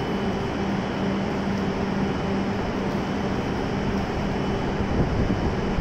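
Stationary E7 series Shinkansen train idling at the platform: a steady low electrical hum and fan noise from its onboard equipment, with a faint high whine; the hum breaks off about five seconds in.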